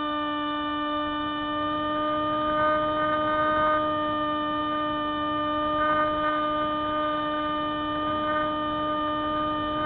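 Spyhawk FPV model plane's electric motor running at a steady throttle: a constant whine with a stack of overtones, swelling slightly a few times.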